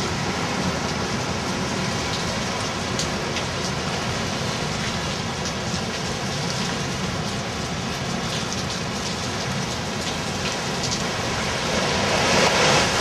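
Hurricane rain falling hard in a steady hiss, with a few scattered drop ticks. The wind gusts louder about twelve seconds in.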